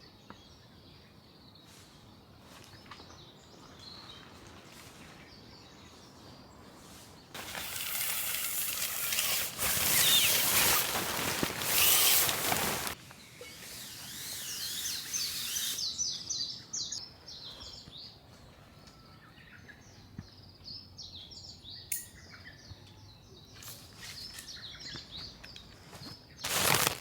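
Small birds chirping, with quick repeated high calls throughout. A loud burst of noise lasts about five seconds in the middle, and a shorter one comes near the end.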